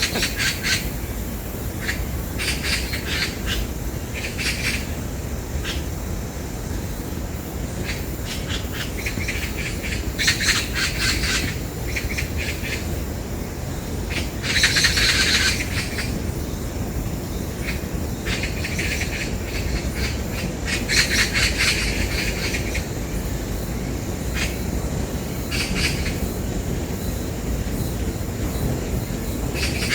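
Oriental magpies fighting among themselves, giving harsh rattling chatter calls in repeated bursts. The loudest burst comes about halfway through. A steady low rumble runs underneath.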